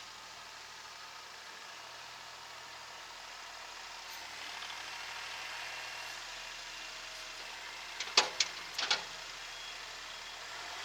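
Kubota SL28H tractor's diesel engine running steadily, rising a little about four seconds in. About eight seconds in comes a quick cluster of three or four sharp knocks.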